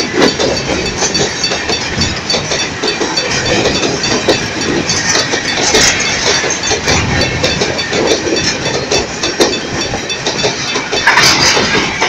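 Empty grain hopper cars of a long freight train rolling past at speed close by: a steady loud noise of steel wheels on rail, broken by many irregular clicks and knocks. A louder, higher-pitched burst comes near the end.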